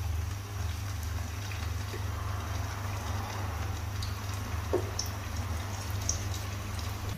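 Sliced chicken sausages frying in a pan of hot oil: faint bubbling with a few sharp pops a little past the middle, over a steady low rumble.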